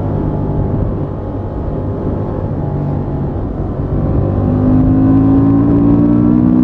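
Honda XL750 Transalp's parallel-twin engine through its stock exhaust, running steadily under the rider. About four seconds in it gets louder and its pitch climbs slowly as the bike accelerates.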